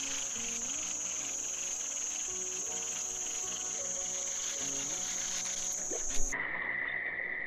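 Steady, high-pitched chorus of insects shrilling in the creekside vegetation, with a faint melody underneath. A sharp knock sounds about six seconds in, after which the high chorus cuts off and a lower steady buzz takes its place.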